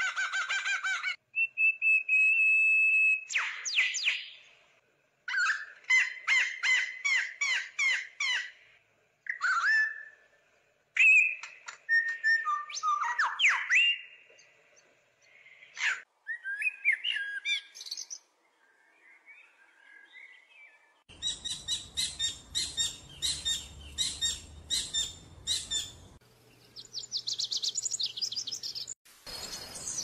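Calls and songs of several different birds in quick succession, cutting abruptly from one to the next every few seconds: a held whistle, runs of quick repeated chirps and trills, and short sweeping notes. In the later part the calls sit over a steady background hiss.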